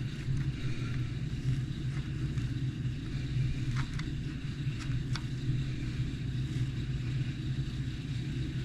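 A steady low hum from a running motor, with a few faint clicks of small plastic and metal parts being handled, around the middle.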